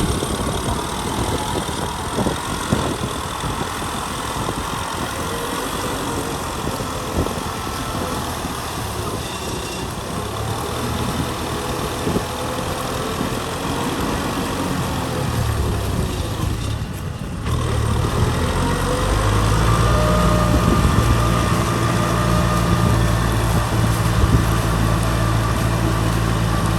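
Kubota M6040 SU tractor's diesel engine running steadily. There is a short break about two-thirds of the way in, after which the engine sounds louder and steadier.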